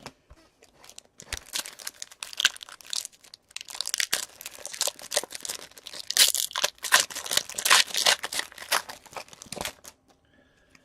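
Hockey card pack wrappers being torn open and crinkled by hand: an irregular, crackly rustle of foil-type wrapping that stops about ten seconds in.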